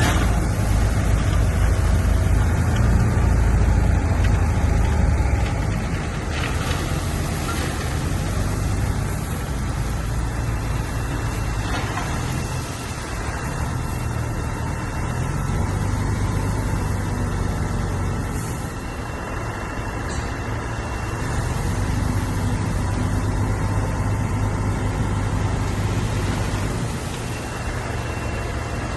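Bulldozer's diesel engine running steadily under load, louder for the first five seconds or so and then settling lower, with a few faint clanks.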